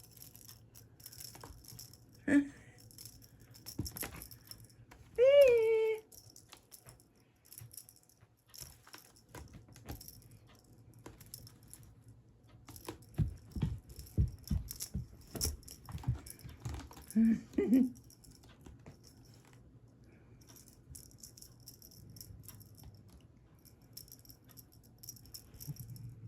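A kitten playing with a rattling, jingling cat toy: scattered rattles and jingles throughout, a run of soft thumps around the middle, and one short, falling cat meow about five seconds in.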